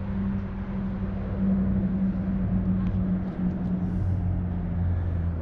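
A car engine running steadily, a low hum that deepens about four seconds in.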